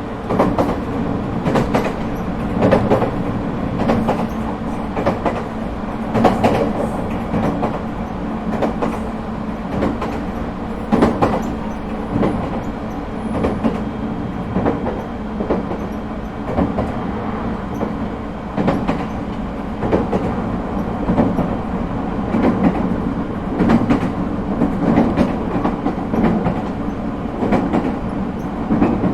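Echigo Tokimeki Railway ET127 series electric train running between stations, heard inside the car: a steady low hum under the rumble of the wheels, with repeated sharp clicks as the wheels pass over rail joints.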